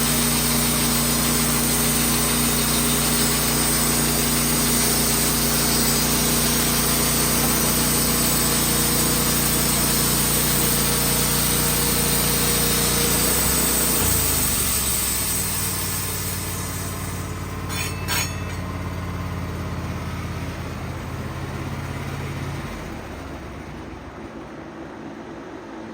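Wood-Mizer portable bandsaw mill running, its band blade cutting through a maple log with a steady engine note and loud sawing hiss. About halfway through the engine drops in pitch and the cutting noise fades as the cut ends, with a couple of sharp clicks; near the end the remaining engine note drops away.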